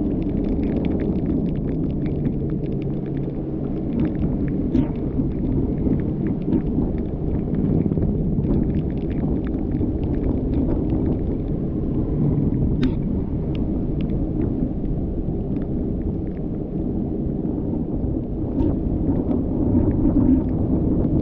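Car driving in rain: a steady low rumble of engine and tyres on a wet road, with scattered ticks of raindrops striking the car.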